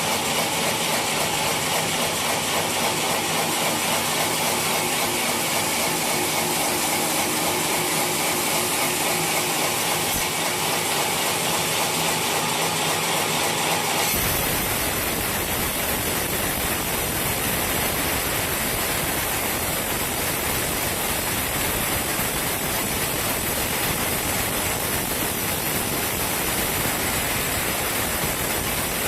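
Sawmill machinery running steadily, with a mechanical hum carrying a few steady tones. About halfway through, the sound changes suddenly to a dense, even hiss.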